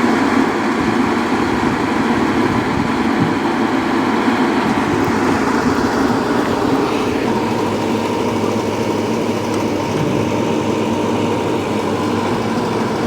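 A heavy diesel engine running loudly and steadily, easing slightly about halfway through.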